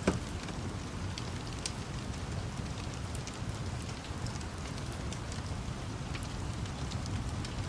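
Steady rain falling, mixed with the scattered crackles and pops of a burning wood fire, one louder pop right at the start, over a low rumble.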